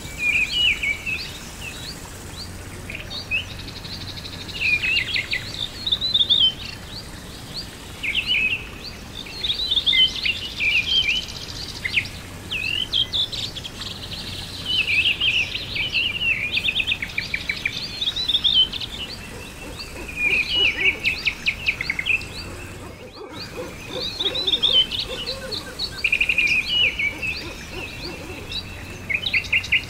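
Birds singing: many short chirps and rapid trills, one after another, over a faint steady hiss. The sound cuts out briefly about 23 seconds in.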